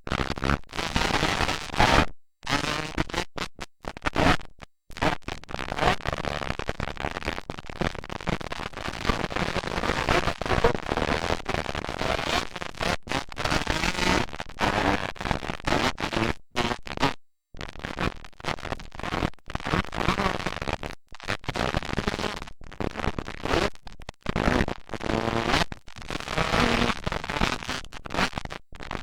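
Motocross dirt bike engines running and revving, harsh and distorted on a camcorder microphone, with many sudden brief dropouts of the audio.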